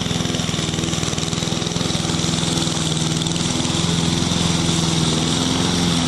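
Push lawn mower's small engine running steadily while mowing, with a steady hiss over the engine note; the pitch shifts slightly a couple of times.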